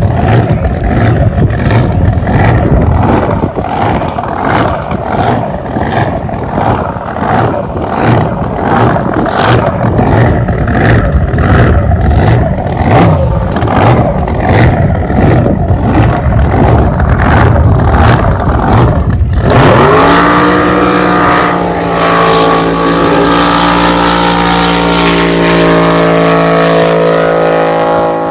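Blown, fuel-injected big-block Chevy drag boat engine running loudly with a rhythmic, loping pulse. About nineteen seconds in, the sound changes abruptly to a smooth, steady engine note that rises briefly and then holds.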